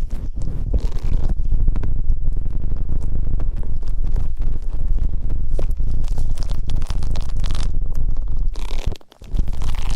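Close-miked ASMR ear-cleaning sounds: continuous rubbing and scratching against the microphone, with a heavy low rumble and fine crackling, dropping out briefly near the end.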